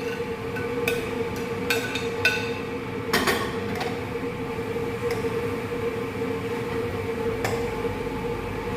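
Chicken fajita being stirred in a pan: a utensil knocks and clinks against the pan several times in the first few seconds and once more near the end, over a steady kitchen hum.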